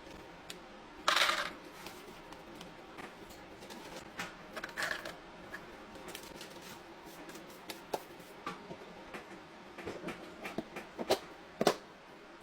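Snacks and a plastic snack box being handled: scattered light clicks and rustling. There is a loud rustle about a second in and two sharp clicks near the end.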